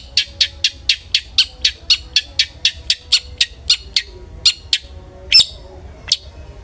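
Long-tailed shrike (cendet) calling in a fast series of harsh, scratchy notes, about four a second, thinning out after about four seconds, with one louder, drawn-out note near the end.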